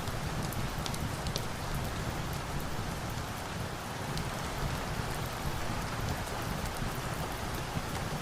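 Steady rain, a constant hiss over a low rumble, with scattered small sharp clicks throughout.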